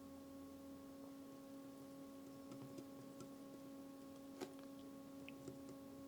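Faint steady electrical hum at a few fixed pitches, with a few small clicks and one sharper click about four and a half seconds in, from handling small parts on the bench.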